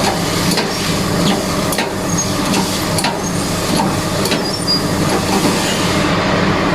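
Steady low mechanical hum with a scattered series of sharp metallic clicks, while a jack is used to force the worn bearing out of an alternator.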